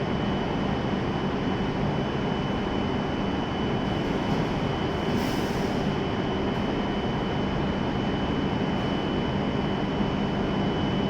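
Steady hum of a W7 series shinkansen standing at the platform, its onboard equipment running, with a thin constant high-pitched whine over it. A brief hiss comes about five seconds in.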